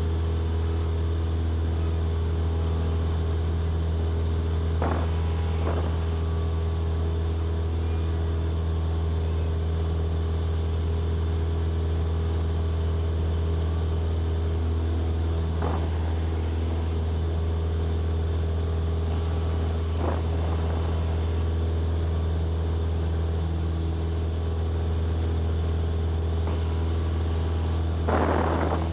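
Steady drone of a Cessna 172S's four-cylinder Lycoming engine and propeller in flight, heard inside the cabin, with a deep hum and an even ladder of engine tones above it. A few faint, brief blips break through now and then.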